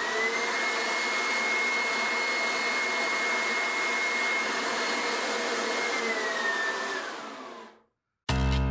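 A motor-driven machine whirring with a steady whine and rushing air. About six seconds in the whine slides down in pitch as it winds down and fades out.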